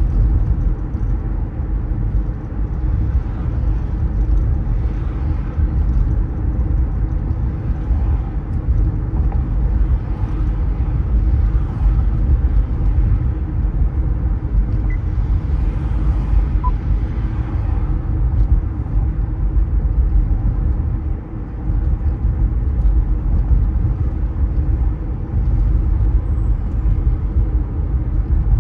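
Car driving on city streets: a steady low rumble of road and engine noise, dipping briefly about two-thirds of the way through.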